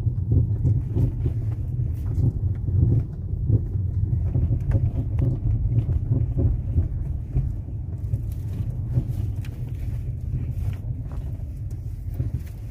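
Ford Fusion suspension knocking irregularly over a steady low road rumble while the car is driven over a rough, potholed street. It is a loud, annoying "ploc-ploc" noise from the suspension.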